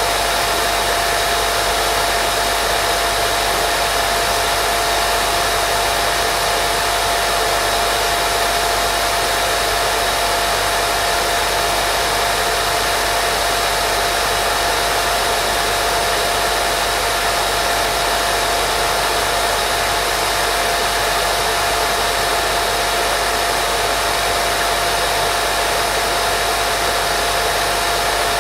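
Continuous white noise for baby sleep: an even, unchanging hiss with a steady hum tone running through it, like a hair dryer.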